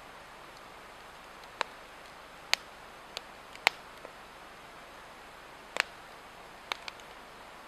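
Burning Swedish torch log crackling: about seven sharp, irregularly spaced pops over a steady hiss.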